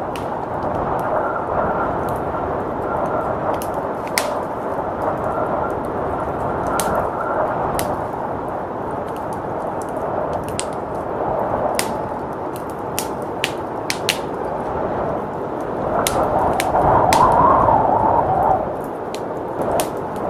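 Wood fire crackling, with many sharp pops scattered throughout, over steady storm wind that swells louder for a couple of seconds near the end.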